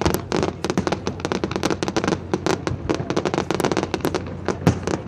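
Aerial fireworks going off in rapid succession: a dense, irregular string of sharp cracks and pops, several a second.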